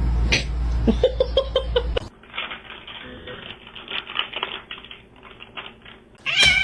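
A loud low rumble for about two seconds, then a run of light clicks and taps. Right at the end, a cat meows with a falling pitch.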